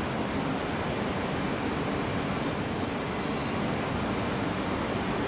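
Steady rushing noise of a shinkansen platform as an E3 series Komachi train creeps at walking pace toward the standing E2 series Hayate for coupling. There is no clank of couplers meeting.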